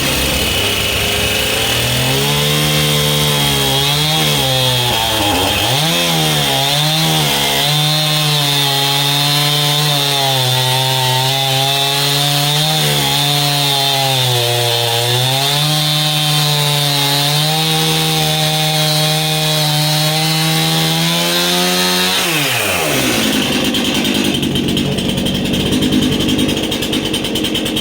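Chainsaw cutting through a frozen log. The engine's pitch sags and recovers again and again as it labours in the cut, over a steady high whine from the chain; the chain is dull. About 22 seconds in, the engine winds down with a falling pitch, and a rougher, noisy sound carries on after it.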